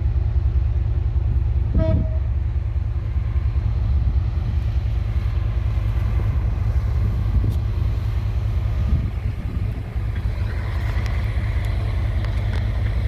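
Train at a station: a steady low rumble, with one short horn toot about two seconds in.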